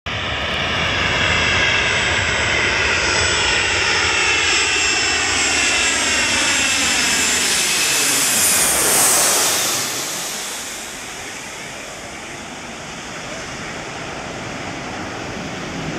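Jet engines of a Boeing 737-300 airliner passing close by on its landing approach. The sound builds to its loudest about nine seconds in, then fades as the aircraft moves away.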